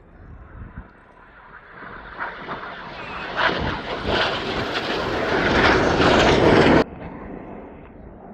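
BAE Hawk T1 jet noise from a passing display aircraft, building over several seconds to a loud peak, then cut off abruptly near the end.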